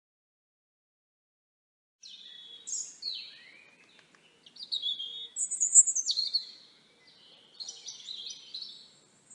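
Songbird singing: a run of high, quick, varied warbling phrases, starting about two seconds in.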